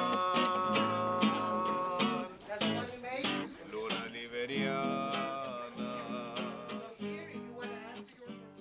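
Acoustic guitar music strummed in a steady rhythm, fading out near the end.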